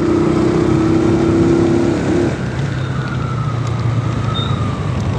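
Motorcycle engine running while riding, holding a steady pitch that drops to a lower steady note about two seconds in as the engine speed falls, over road and wind noise.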